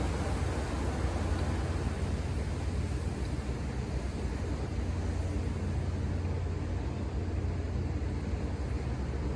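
Ocean surf: a steady wash of waves with a constant low rumble.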